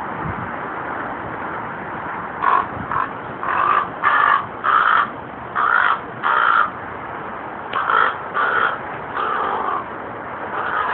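Raven giving a series of short, harsh calls in runs of two or three, starting about two and a half seconds in, over steady background noise.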